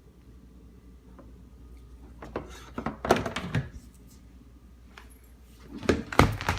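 Handling noise from supplies being moved: two spells of thuds and clattering knocks, the second, near the end, the loudest.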